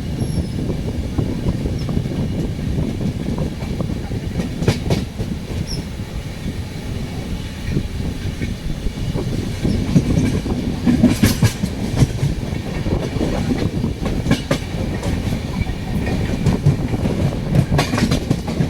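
Indian Railways train running on the track: a steady low rumble with irregular wheel clacks over rail joints, thickest about ten to twelve seconds in and again near the end.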